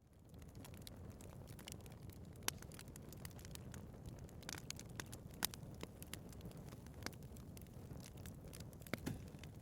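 Wood fire burning in a fireplace: a steady low rush of flame with frequent small crackles and a few sharper pops. It fades in at the very start.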